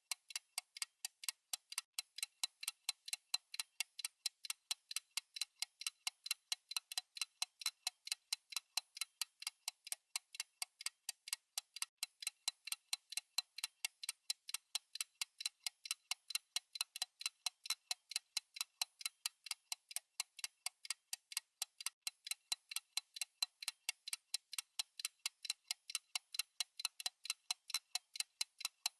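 Fast clock-style ticking from a countdown timer's tick sound effect: short, crisp ticks at a steady rate of several a second, even and unbroken.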